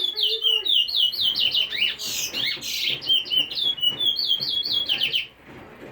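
Pet bird chirping in a fast run of short, high repeated notes, about four or five a second, with a few harsher, louder calls about two seconds in; the chirping stops abruptly near the end.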